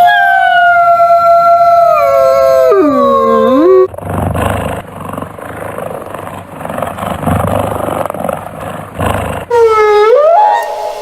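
A canine howling: one long, loud, held note that slides sharply down near its end. A rough, noisy stretch without pitch follows, and then another howl swooping up in pitch near the end.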